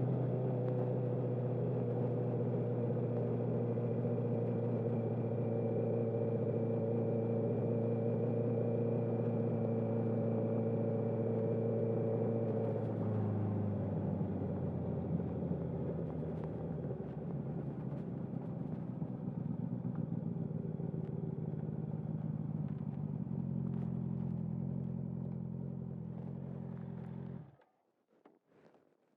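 2021 Honda CB650R's inline-four engine, with a full Akrapovic exhaust and no dB killer, running steadily at low revs. Its note shifts slightly about halfway through, and it cuts out suddenly near the end as the engine is switched off.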